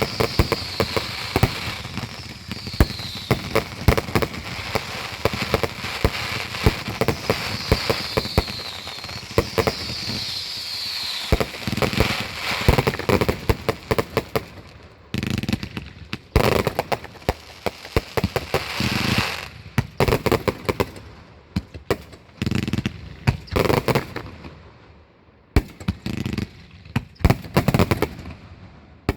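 Fireworks going off in a dense barrage of bangs and crackles, with several short falling whistles in the first half. After about fifteen seconds the shots come in separate bursts with short lulls between them.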